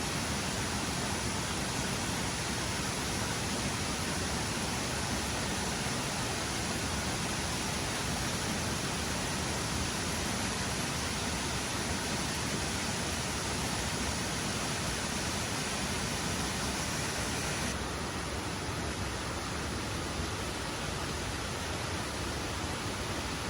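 Steady rushing of a waterfall, an even wash of water noise; the hiss at the top softens slightly about eighteen seconds in.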